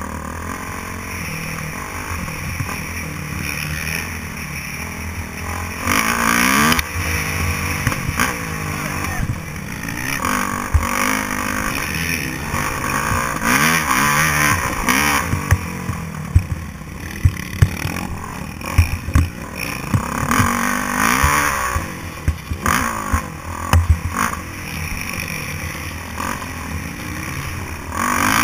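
Motocross bike engine revving hard, its pitch rising and falling again and again, with frequent short knocks and clatter.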